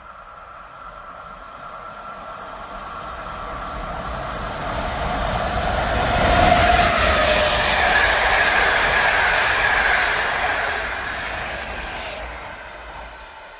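Electric locomotive-hauled passenger train approaching and passing: the rail noise grows steadily, is loudest about halfway through as the locomotive and coaches go by, then fades away.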